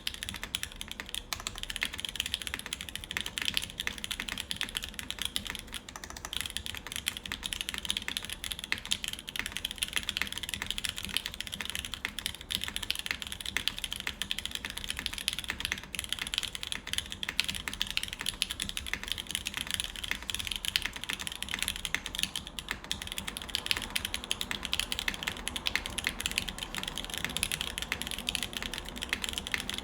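Steady, fast typing on a custom mechanical keyboard (Tsukuyomi) with lubed Alpaca linear switches, an aluminium plate and GMK keycaps: a continuous run of soft, even keystroke clacks.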